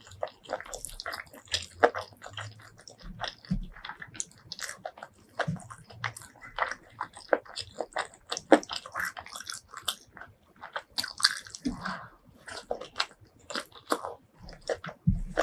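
Close-miked eating: steady chewing and biting, with many quick wet clicks and crunchy bites throughout.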